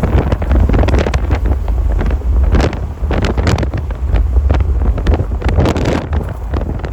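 Strong wind buffeting the microphone: a heavy, constant low rumble with frequent crackling pops from the gusts.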